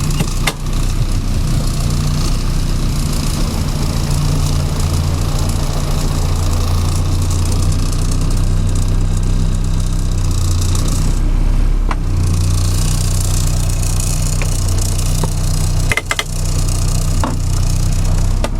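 1970 Morris Minor's four-cylinder A-series engine running steadily on part choke while still cold, with a few sharp clicks along the way.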